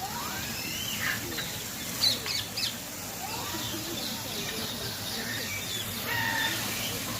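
Many birds chirping and calling together in a steady chorus of short, quick chirps, with a louder burst of sharp chirps about two seconds in.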